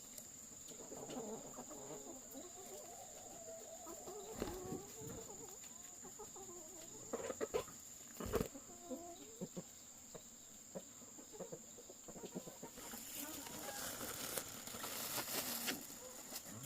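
Chickens clucking on and off, with a few sharp knocks in the middle and a rustling noise over the last few seconds.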